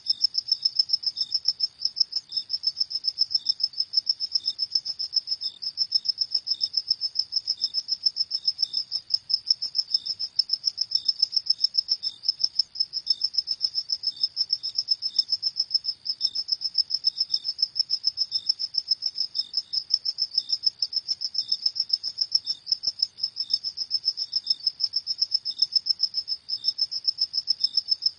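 Crickets chirping: a steady, high-pitched trill of rapid, even pulses that never lets up.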